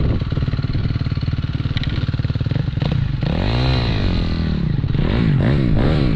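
Dirt bike engine idling, then revved up and back down about three seconds in, followed by several quicker blips of the throttle.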